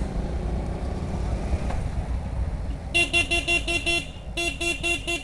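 A vehicle horn sounding in two quick runs of rapid beeps, about five or six a second, over the steady low rumble of a motorcycle ride.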